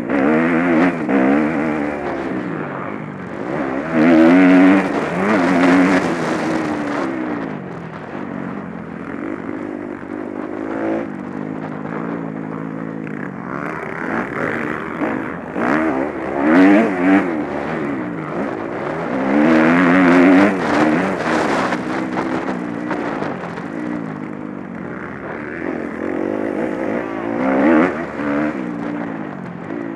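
Motocross bikes racing on the track: several engines revving, their pitch repeatedly rising and falling as riders accelerate and shift, with a few louder swells as bikes come close.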